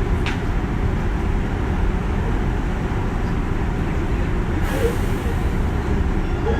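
JR West 201 series electric train running between stations: a steady rumble of wheels on rail, with a short hiss a little over two-thirds of the way through.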